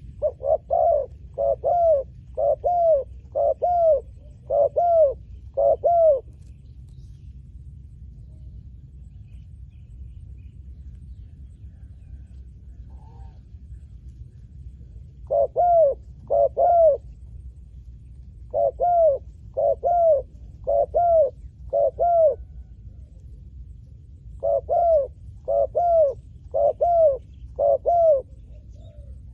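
Spotted dove cooing in repeated bouts of short, arched coos, four bouts in all with a long pause after the first.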